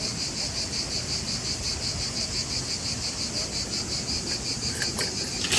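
Insects chirping in a steady, even rhythm of about six pulses a second, with a short sharp click just before the end.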